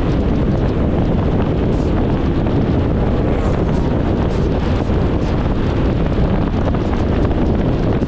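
Steady wind noise buffeting the microphone, a dense low rumble with no let-up.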